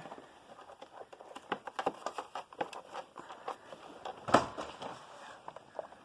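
Handling noise from a Hoover Concept One upright vacuum with its motor off: scattered light clicks and taps, with one louder knock about four seconds in.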